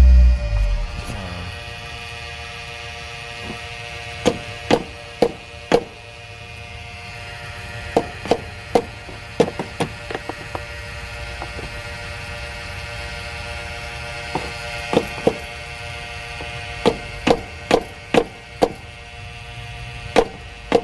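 A hammer lightly tapping a part on the engine's intake, about twenty sharp taps in small clusters, over a steady hum.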